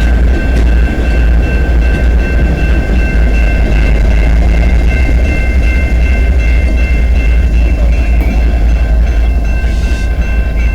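Light engine move of three diesel locomotives (a GP9RM, a Dash 9 and an ES44DC) rolling into a yard siding: a heavy low rumble with a steady high-pitched whine of several tones held above it.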